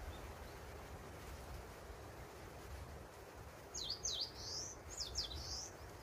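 A songbird calls twice in the second half, each phrase a pair of quick, high downward-slurred notes followed by a short warble, over steady low background noise.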